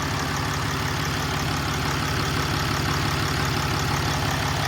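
Dodge Ram pickup's engine idling steadily, with an even low drone. The charging system is reading under 12 volts with the battery light on: the alternator is suspected of not charging.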